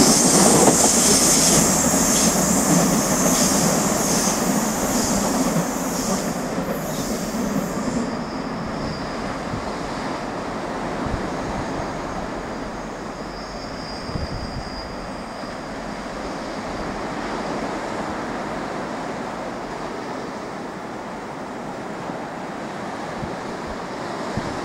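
Irish Rail 8520 class DART electric train running away on curved track, its wheels squealing and clicking over the rail joints, fading out over the first eight seconds. A quieter, steady rumble remains after that.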